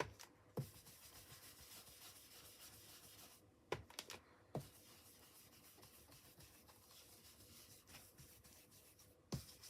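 Faint rubbing of a blending brush working Distress Oxide ink onto smooth cardstock, with a few soft taps.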